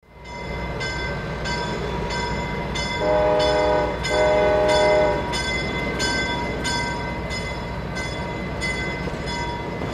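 Train horn sounding two blasts of about a second each over a steady rumble. A regular ringing strike repeats about every two-thirds of a second throughout.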